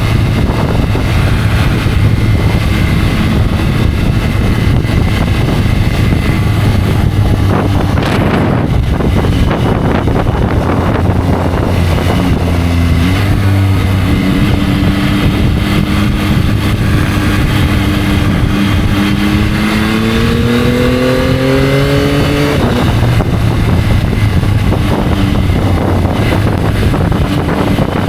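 Yamaha motorcycle engine running under way, with a steady rushing noise over it. In the second half the engine note climbs steadily for about three seconds as it accelerates, then drops suddenly.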